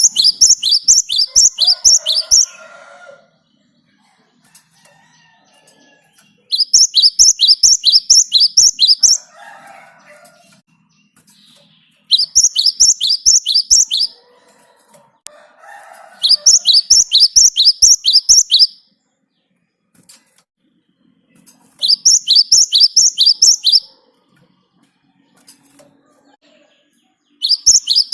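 Cinereous tit (gelatik batu) singing its rolling song. Each bout lasts about two to three seconds and is a fast string of high, sharp, repeated two-part notes, about four a second. The bouts come again and again, with pauses of a few seconds between them.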